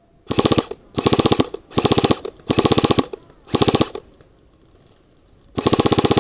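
Airsoft rifle firing full-auto in short bursts of rapid clicking shots: five bursts in the first four seconds, then a longer one starting near the end.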